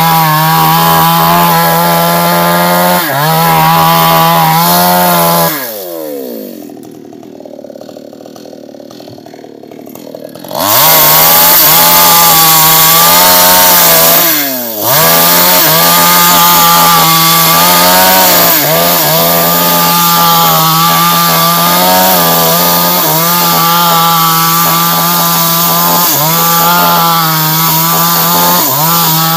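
Two-stroke New West chainsaw running at full throttle, its pitch wavering and dipping as the chain bites into sengon wood. About five seconds in it falls back to a much quieter idle, then revs back up to full speed and keeps cutting, with one quick dip and recovery a few seconds later.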